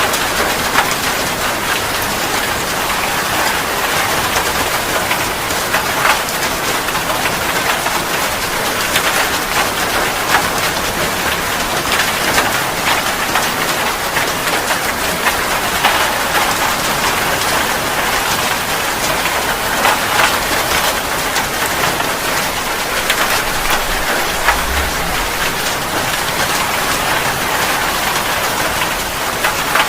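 Steady rain falling, with many sharp taps of drops striking a surface scattered through it.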